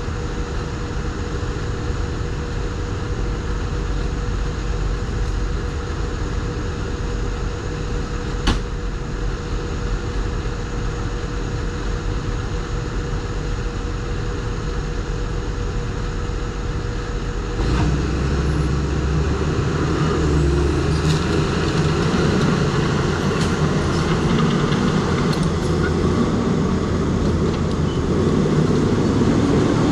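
Diesel engine of a New Holland crawler dozer running steadily, with a sharp click about eight seconds in; about eighteen seconds in it gets louder and deeper.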